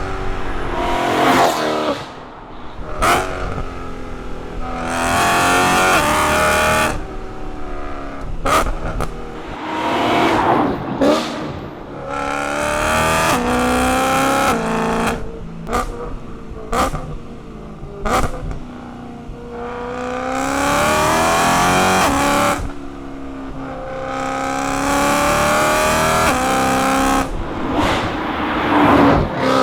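BMW E92 M3's straight-piped 4.0-litre S65 V8 exhaust, rising in pitch through several long full-throttle pulls and dropping sharply between them. Short, sharp throttle blips come in the middle of the stretch.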